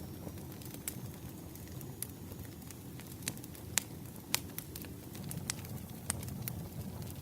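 Campfire crackling: a steady low rumble of burning wood with irregular sharp pops and snaps, two louder pops a little past the middle.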